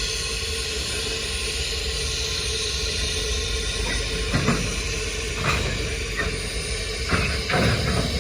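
Freight train cars rolling through the yard: a steady rumble and hiss with a faint steady tone. From about halfway there are several sharp clanks.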